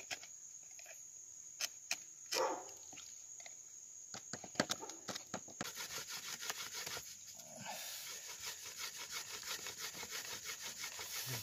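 Bamboo rubbed rapidly back and forth against bamboo to make fire by friction: a fast, even scraping rhythm that starts about halfway through. Before it come a few scattered clicks and knocks and a short grunt-like vocal sound.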